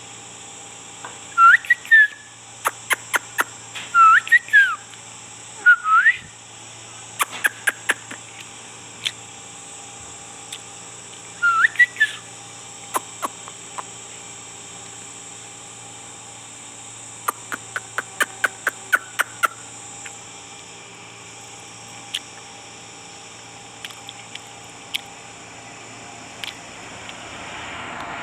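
Pet parrot giving short rising whistles, a few at a time, between quick runs of sharp clicks, over a faint steady hum.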